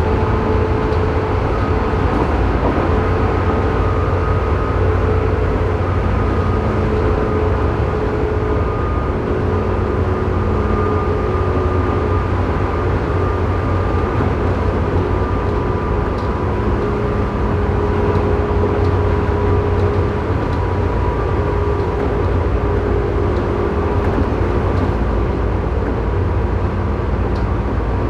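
Running sound of a Tobu 9000 series electric train inside car Moha 9204, directly above its armature chopper unit, whose chopper the uploader notes makes an abnormal noise. A steady heavy rumble of wheels on rails with several steady whining tones over it that fade and come back.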